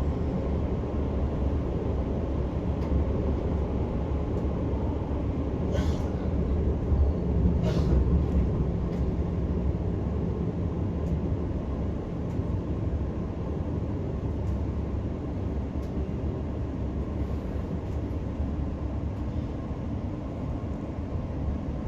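Electric multiple-unit passenger train running at speed, heard from inside the carriage: a steady low rumble of wheels on rail, with two brief knocks about six and eight seconds in.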